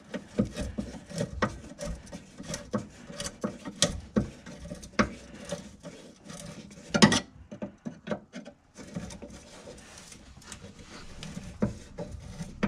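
Fuel filter clamp being tightened with a flat-head screwdriver: irregular metal scraping and clicking, with a sharper knock about seven seconds in.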